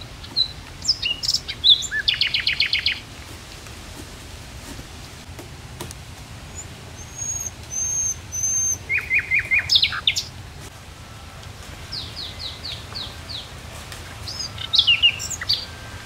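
Wild songbirds calling: several short phrases of quick repeated chirps and whistled notes, spaced a few seconds apart, over a faint steady low rumble of background noise.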